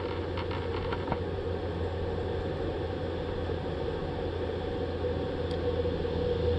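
A steady low hum with a few faint clicks about a second in.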